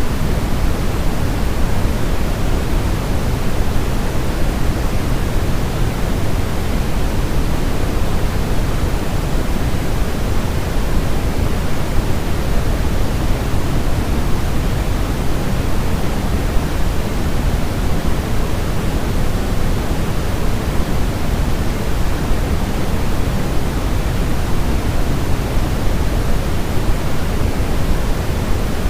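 Steady synthetic white noise for lulling a baby to sleep: an even, unbroken hiss at a constant level, heaviest in the low end.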